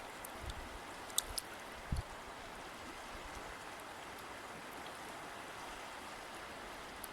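River water flowing steadily with a continuous rushing. A few small splashes and drips sound about a second and two seconds in.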